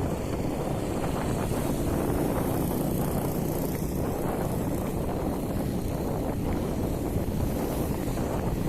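Steady wind noise buffeting the microphone, a dense low rumble without any pitch or rhythm.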